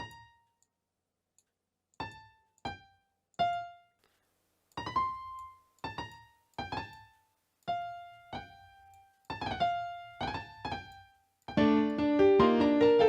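A piano-like keyboard instrument in FL Studio plays single notes one at a time with gaps between them, each note fading out: a trap-beat melody being worked out note by note. About eleven and a half seconds in, a fuller, louder looping melody with chords starts playing.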